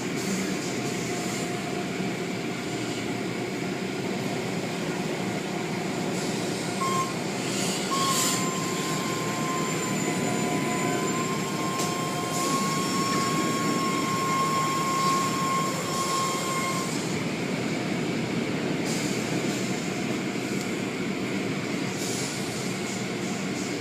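Automatic car wash tunnel machinery running: a steady wash of machine and spray noise, with a thin whine that starts about a third of the way in and stops about two thirds through.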